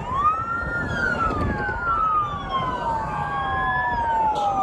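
Several police car sirens wailing at once, their slowly rising and falling tones overlapping out of step.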